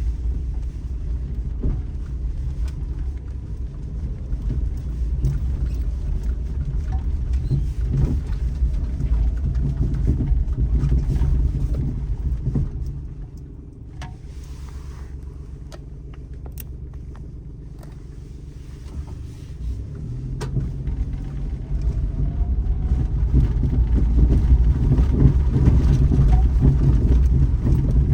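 Daihatsu Terios Kid driving on a forest road: a steady low engine and road rumble with scattered small knocks and ticks. It eases off and goes quieter for several seconds in the middle, then builds back up.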